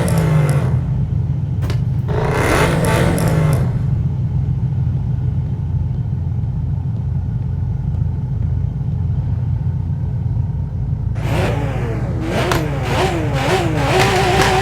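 A car engine running steadily with a low rumble. Louder stretches with wavering, rising and falling tones come in near the start, again about two seconds in, and from about eleven seconds on.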